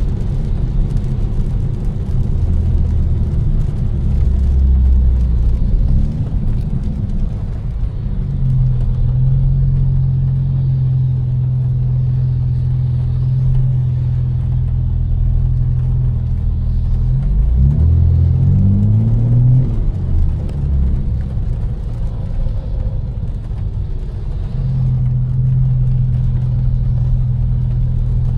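Tuned BMW M4's twin-turbo inline-six, with catless downpipes and an aftermarket exhaust, droning steadily at cruise. About seventeen seconds in the engine note sweeps up and back down, as in a short burst of acceleration, then settles into the steady drone again.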